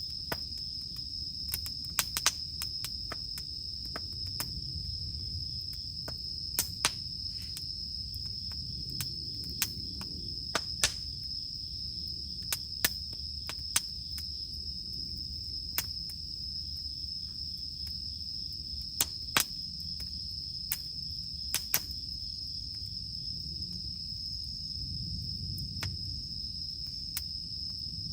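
Campfire crackling with irregular sharp pops from the burning wood, about twenty in all, over a low rumble. Behind it, cicadas give a steady high-pitched drone.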